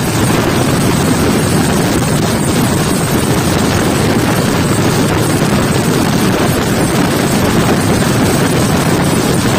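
Steady rush of wind and wheel-on-rail running noise from an LHB passenger train running at speed through a small station without stopping, heard from an open coach door.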